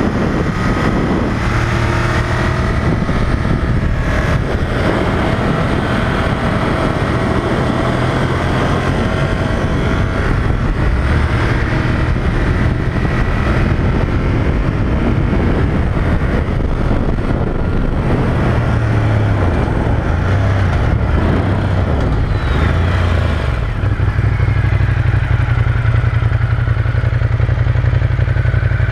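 Ducati Monster 1200 S's L-twin engine running under way, with wind rush over the microphone. The revs rise and fall a few times around twenty seconds in, and the engine gets louder from about three-quarters through as the bike pulls harder.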